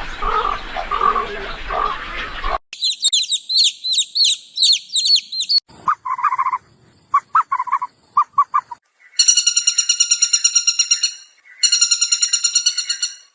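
A sequence of different animal calls, one clip after another: rapid high chirps, then short lower chirps, then two long, buzzing trills near the end.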